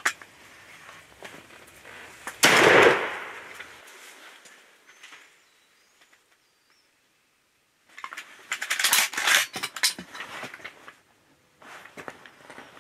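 A single shotgun blast about two and a half seconds in, its report fading over about a second and a half. Later come several seconds of crackling rustle.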